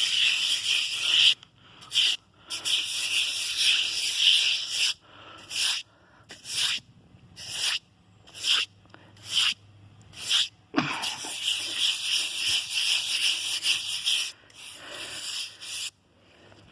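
Brush scrubbing the basin of a bird bath: rasping scraping, in long runs at first, then in separate strokes about once a second, then steady again.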